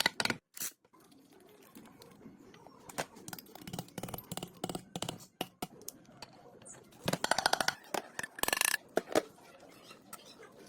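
Irregular clicks and knocks, with a quick run of rapid clicks about seven seconds in and a short rush of noise just before nine seconds.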